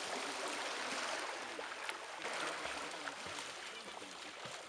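Sea waves washing on the shore: a steady hiss of surf that swells about a second in and again about two and a half seconds in.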